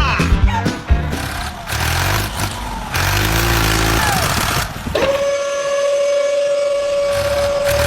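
A vehicle engine running steadily. About five seconds in, a steady high tone joins it and holds for roughly three seconds.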